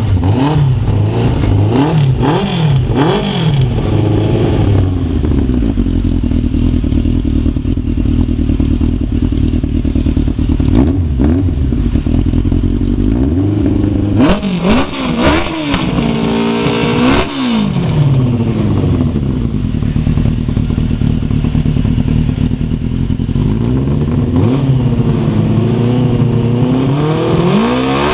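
Suzuki 900 cc motorcycle engine in a Zastava 750 being revved in several bursts of quick rises and falls in pitch, near the start, around the middle and near the end, settling to a steady run between them.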